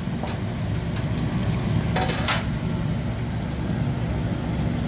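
Steady low rumble of a busy hibachi restaurant, with a brief clink of metal or dishes about two seconds in.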